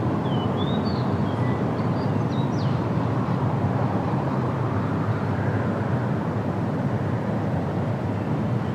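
Steady wind rushing through forest trees, with a few faint bird chirps in the first three seconds.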